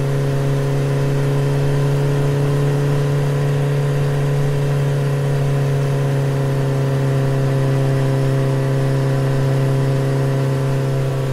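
Small electric motor running steadily with a constant humming whine.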